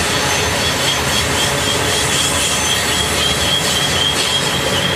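Freight train of steel coil cars rolling past on a curve, the wheels giving a steady rolling noise. From about a second and a half in, a wavering high wheel squeal rides over it.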